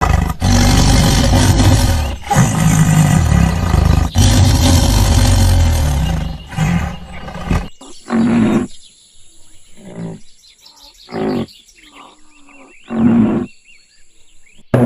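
Big cat roaring: long loud bouts with brief breaks for the first half, then shorter separate calls every second or two. Faint chirps and a steady high whine behind the later calls.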